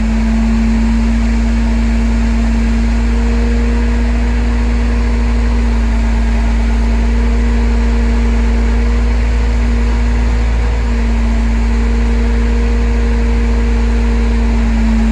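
Heavy vehicle engine running steadily, with a deep rumble and a steady hum. A higher whine comes and goes several times.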